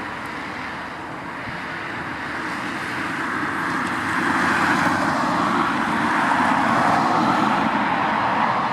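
Jet airliner's engines flying past, growing steadily louder with a whine that falls in pitch.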